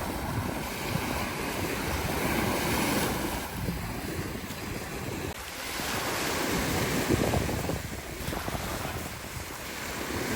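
Surf of a rough sea breaking and washing, swelling and fading every few seconds, with wind buffeting the microphone.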